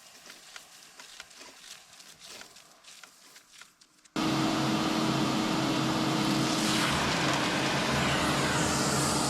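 Faint scattered clicks and knocks, then, after an abrupt cut about four seconds in, a loud steady motor drone with a low hum.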